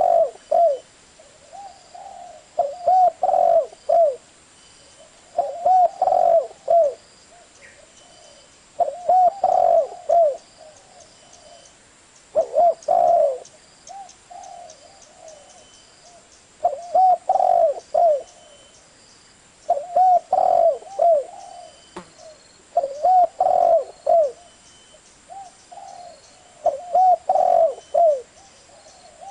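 Spotted dove cooing: the same short phrase of several low coos repeated over and over, about every three to four seconds.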